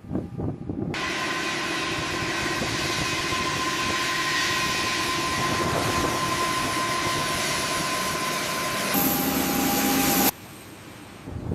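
Steady loud mechanical noise with a constant whine, starting about a second in. It changes about nine seconds in, turning hissier with lower tones, and cuts off abruptly a second later.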